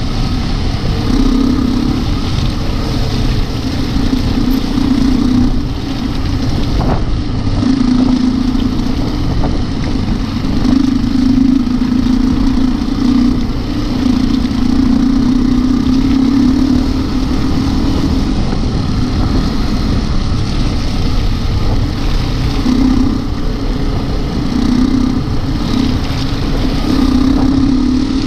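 Trail motorcycle engine running as the bike is ridden along a muddy lane, its note repeatedly swelling and easing as the throttle is opened and closed.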